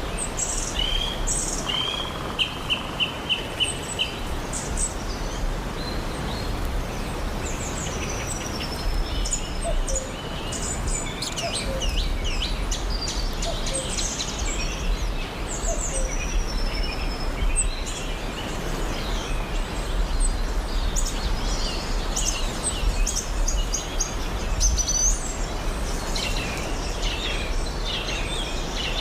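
Several birds chirping and calling in short high phrases, one of them repeating a quick run of notes early on, over a steady low rumble of background noise.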